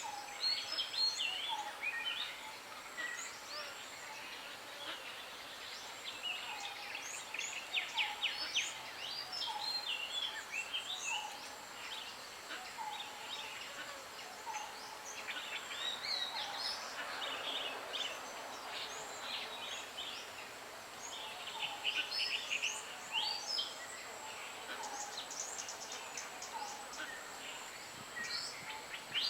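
Several wild birds calling together: quick chirps and rapid trills overhead, with one bird repeating a short low note about once a second.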